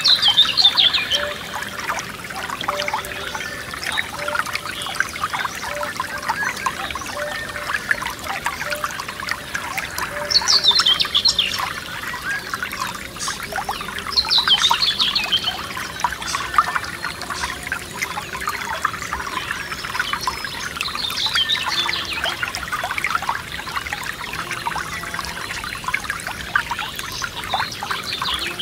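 Forest stream trickling and splashing without a break, while a songbird sings short falling phrases about five times, a few seconds apart.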